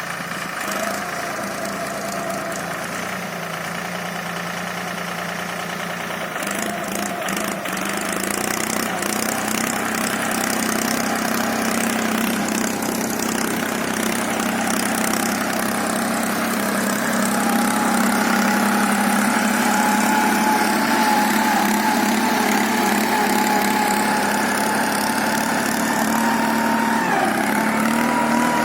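Abhiman 4x4 tractor's diesel engine running steadily while pulling a 7-tine cultivator. It grows louder and its note rises a little past the middle, then dips briefly near the end and recovers.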